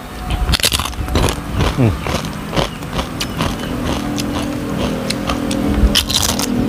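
Close-up crunching and chewing of a fried kerupuk cracker, a string of sharp crackles, with a motor vehicle's engine running in the background, its pitch falling as it passes about two seconds in.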